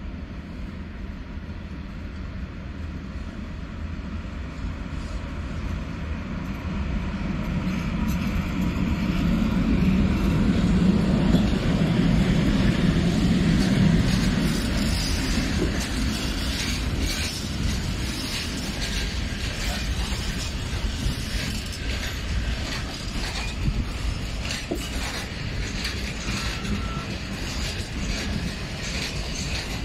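PKP Cargo ET22 electric locomotive hauling a freight train of loaded open wagons past. Its low hum builds and is loudest about ten to fourteen seconds in, then the wagons' wheels rattle and clack over the rail joints.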